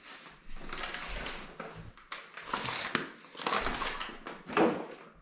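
Kitchen handling sounds: a few bouts of rustling and scraping with a couple of sharp clicks.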